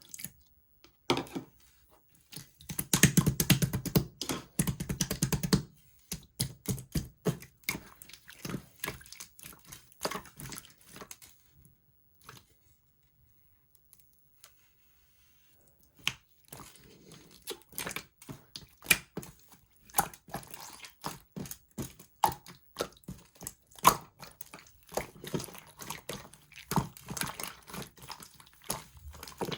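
Clear slime being squeezed and pressed by hand, making quick wet clicks and pops of trapped air. A dense run of clicking comes a few seconds in, then it goes quiet for about four seconds around the middle before the clicking resumes.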